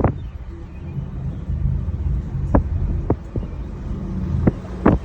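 Low, steady rumble inside a moving aerial tram cabin as it travels along its cables, with a few sharp knocks scattered through it.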